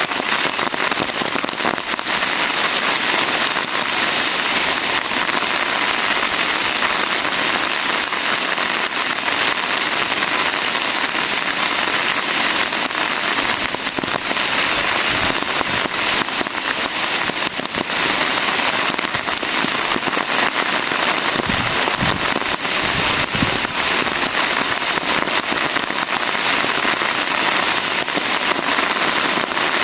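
Steady rain falling in a forest: a dense, even patter of many drops. A few low thuds come about three-quarters of the way through.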